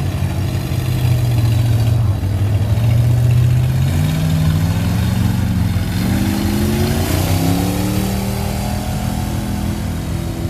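Truck engine under load in a truck pull: it runs steadily at first, then from about four seconds in its pitch climbs in steps as it revs up, and near the end it settles back to a lower, steady note.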